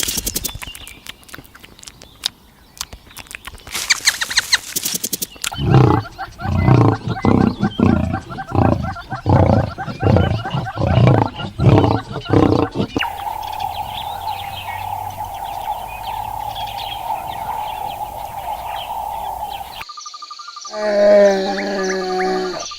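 A run of different animal sounds, one after another. In the middle comes a rapid series of low growling or roaring pulses, then a steady drone, and a short pitched call near the end.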